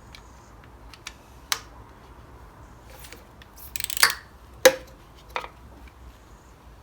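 Small metal parts and hand tools clicking and clinking during work on a Briggs and Stratton 6hp engine's casing bolts: a few separate sharp clicks, a brief clatter about four seconds in, and the loudest clink just after it.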